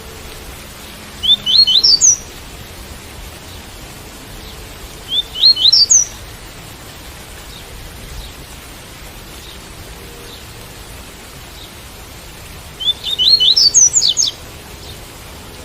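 Double-collared seedeater (coleiro) singing the tui-tui song: three short phrases of quick whistled notes, each note sweeping upward and the phrase climbing in pitch, about one, five and thirteen seconds in. A steady hiss of rain runs underneath.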